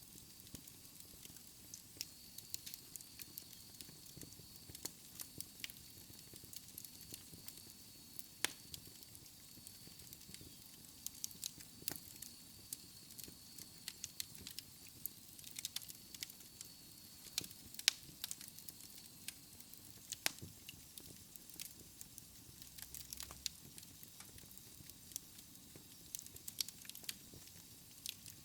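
Wood fire crackling in a fireplace: irregular pops and snaps over a soft hiss, with a faint high whistle through the middle part.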